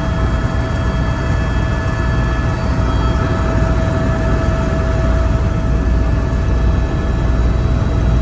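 Helicopter in flight: a loud, steady drone of engine and rotor with a deep rumble and a thin whine held at one pitch.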